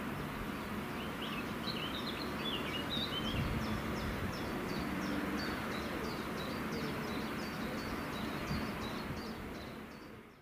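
Songbirds calling: one bird repeats a short, high chirp about twice a second throughout, while another twitters briefly in the first few seconds, over a steady background rumble.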